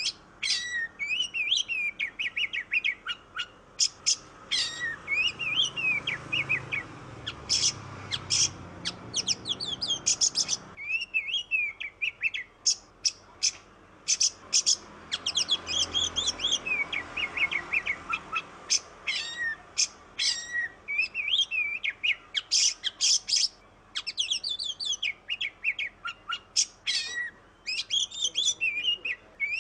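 Oriental magpie-robin (kacer) singing almost without pause: a fast, varied run of sweet whistled phrases mixed with harsh, rattling notes.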